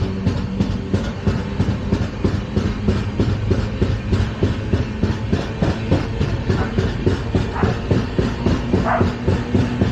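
LHB passenger coaches running at speed, the wheels clattering rapidly over the rail joints over a steady low rumble.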